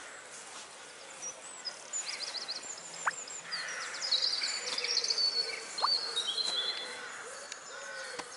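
Small birds chirping and trilling: many short, high calls, some in quick runs of repeated notes, over a steady outdoor background hiss.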